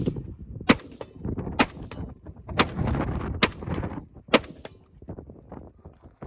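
Five gunshots fired at a slow, even pace, about one a second, with wind buffeting the microphone between them.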